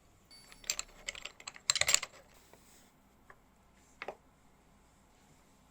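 A quick cluster of light clicks and rattles from small hard objects being handled, followed by two single clicks.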